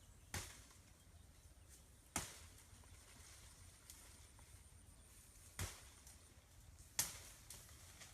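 Four sharp chopping strikes at uneven intervals, a blade hitting wood, each dying away quickly, with only a faint background hush between them.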